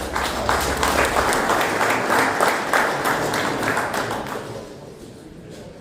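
Crowd applauding and clapping, fading out about four and a half seconds in.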